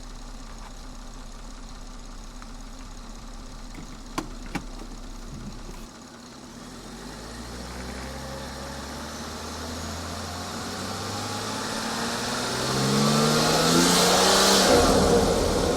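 BMW 440i's turbocharged B58 straight-six heard right at its aftermarket front-mount intake: it idles steadily for about six seconds, with two sharp clicks near four seconds, then accelerates away, rising in pitch through several gears and getting louder. Near the end a loud intake and turbo whoosh peaks before the sound drops away.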